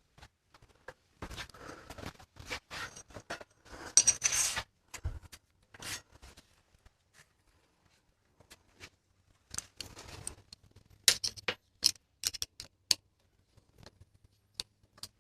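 Scattered clicks, clinks and scrapes of hand work on mountain bike parts, with a longer scraping rustle about four seconds in and a run of sharp clicks around eleven to thirteen seconds in.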